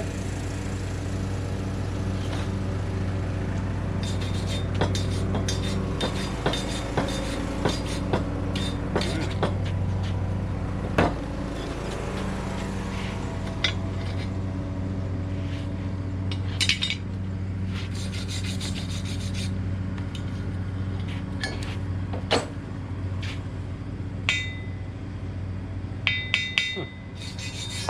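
Slag hammer chipping and scraping slag off fresh welds on a steel davit: irregular metal taps and scrapes, a few ringing briefly near the end, over the steady drone of an engine running.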